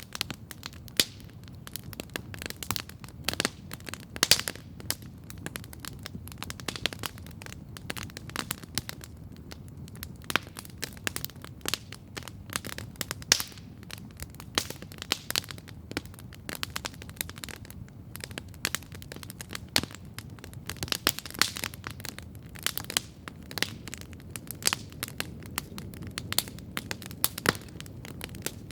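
Wood campfire crackling steadily, with frequent sharp, irregular pops and snaps over a low, steady rumble.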